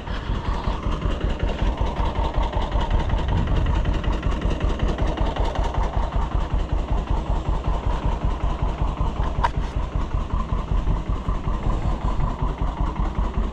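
Farm tractor engine running steadily with an even, rapid pulsing beat.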